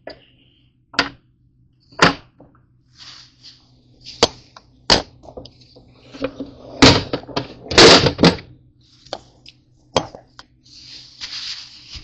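Kitchen food-prep handling: a series of sharp, irregular knocks, the loudest about seven and eight seconds in, with scraping and rustling between them, over a faint steady hum.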